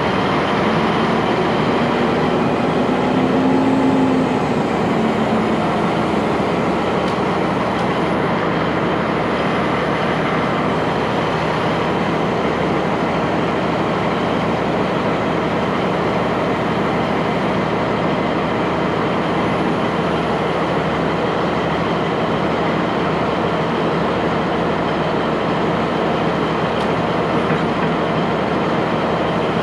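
A heavy diesel engine running steadily and loudly up close. About two to four seconds in, there is a brief rise in pitch and level.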